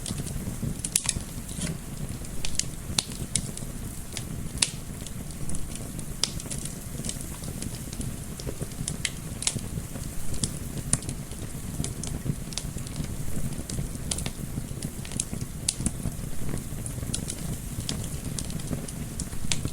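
Wood fire crackling, with irregular sharp pops and snaps over a steady low rumble of gentle wind.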